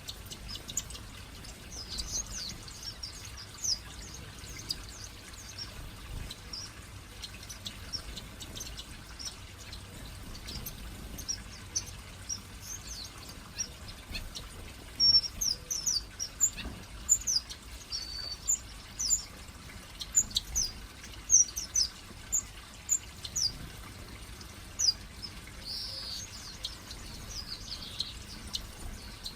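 A flock of small aviary finches and waxbills chirping: many short, high chirps that come thickest and loudest in the middle.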